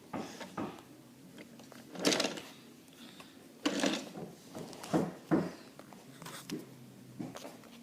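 Wooden toy trains and track being handled: a handful of short knocks and rattles, the loudest about two seconds in and again around four and five seconds.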